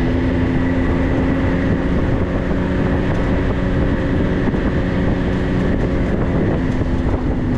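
Off-road vehicle driving along a dirt road: the engine runs at a steady speed under a continuous low rumble of tyres and chassis.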